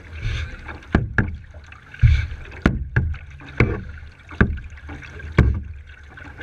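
Kayak being paddled: sharp knocks and splashes come with the strokes, about one a second, over a steady low rumble.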